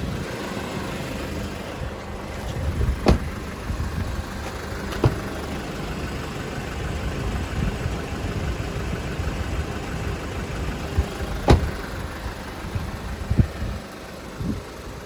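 Hyundai Porter II truck's engine running steadily with a low rumble. A few sharp clicks or knocks are spaced through it.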